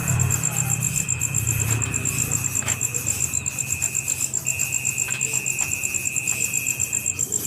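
Insects calling: a fast, evenly pulsing high chirp, several pulses a second, over a steady high-pitched whine.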